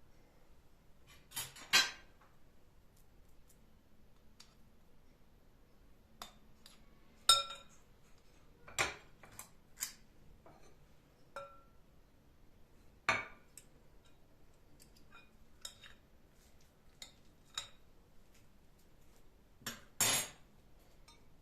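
Dishes and cutlery clinking and knocking as they are handled, with a few louder knocks among lighter clinks, some ringing briefly.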